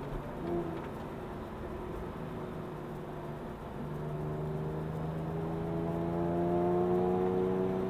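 Porsche 911 Carrera S (997) 3.8-litre flat-six, heard from inside the cabin, pulling at steady revs and then accelerating from about four seconds in, its pitch rising steadily and the sound growing louder toward the end.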